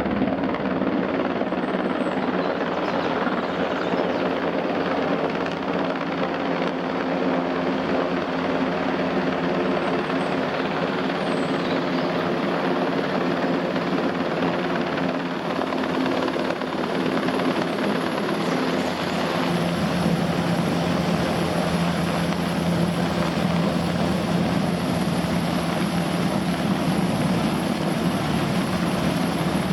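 NH90 twin-turbine helicopter hovering, its rotors and engines making a loud, steady noise. The pitch of its tones shifts about twenty seconds in.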